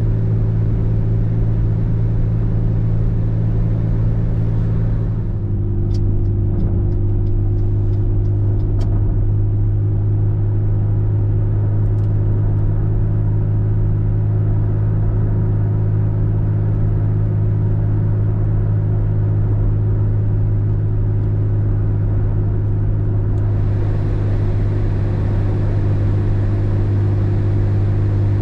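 A car driving, with a steady low drone of engine and road noise. About five seconds in, the drone's note drops slightly and the higher hiss fades, with a few small clicks; the hiss returns near the end.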